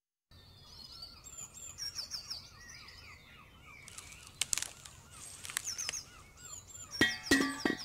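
Garden birdsong ambience: several small birds chirping and warbling. It starts just after the beginning. A few loud, sharp sounds break in about halfway through and again in a cluster near the end.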